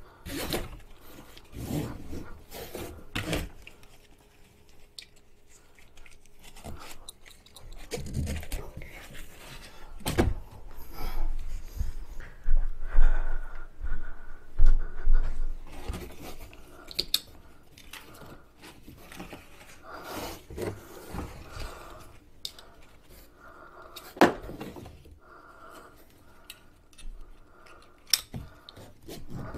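Irregular knocks, clicks and thumps of a Tucktec folding kayak's plastic hull and fittings being handled and folded into shape during assembly. There are heavier thumps in the middle and a sharp click near the end.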